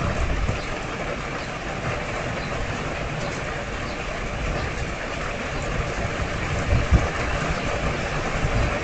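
Heavy rain falling steadily, a dense hiss with fine ticks of drops hitting close by. A few brief low thumps stand out, the loudest near the end.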